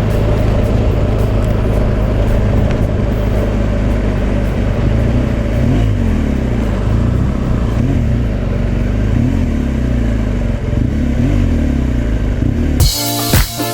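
BMW R1200 GS boxer-twin engine running steadily while riding at road speed, with a constant rush of wind and road noise and the revs rising and falling a little from time to time. Near the end it cuts suddenly to music with a beat.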